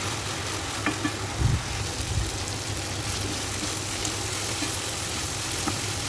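Liver and peppers sizzling in a frying pan over a steady low hum, with a few short knocks of a utensil against the pan between about one and two seconds in.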